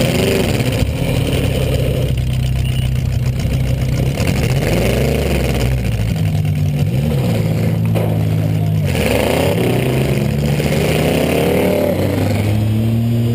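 Buick LeSabre's 3.8-litre V6 running hard during a demolition derby, revving up and down several times as it is driven, heard from inside the car.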